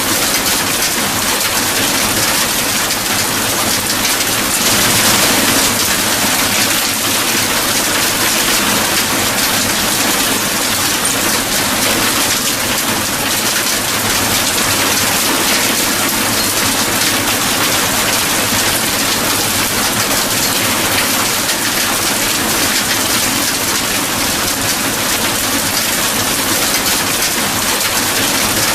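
Steady heavy rainfall, an even hiss of falling rain, swelling slightly about five seconds in.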